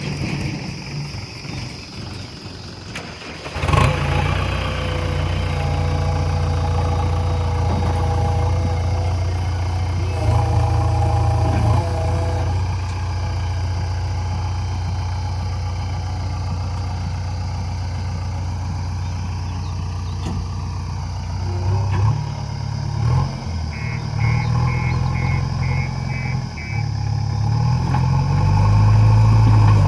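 Heavy diesel engine of loading machinery comes in abruptly about four seconds in, then runs steadily. Its pitch rises and falls a few times in the last third, and it gets louder near the end. A quick run of about seven short high beeps sounds partway through.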